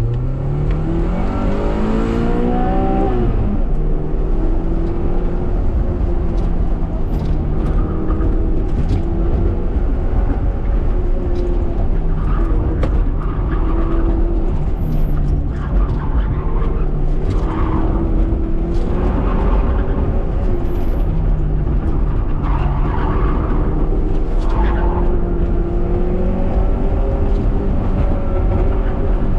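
Honda Prelude's H22 2.2-litre VTEC four-cylinder engine on a fast autocross run: it revs up hard off the launch over the first few seconds, then rises and falls with throttle and gear changes. Short bursts of tyre squeal come through the middle of the run.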